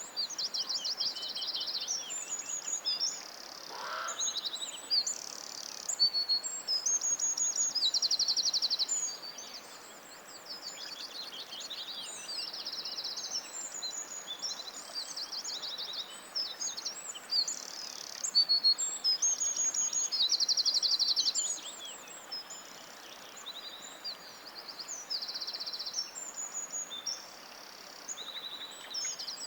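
Several forest songbirds singing at once: quick, high-pitched phrases and fast repeated trills follow one another with hardly a pause, over a steady faint hiss.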